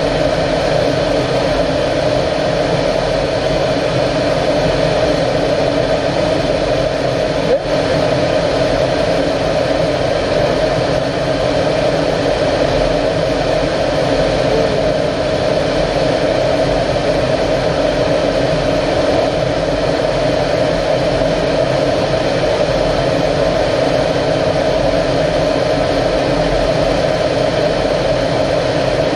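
Steady, unbroken drone of an L-39 Albatros jet trainer's turbofan engine and airflow in flight, with several steady tones in it. There is one brief click about seven and a half seconds in.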